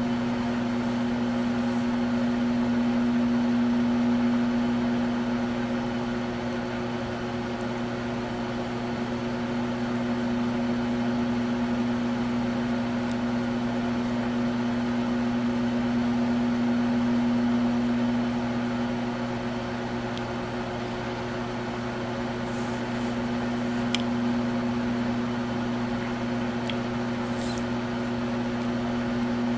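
Microwave oven running with a steady electric hum, slowly swelling and fading in level, with a faint tick near the end.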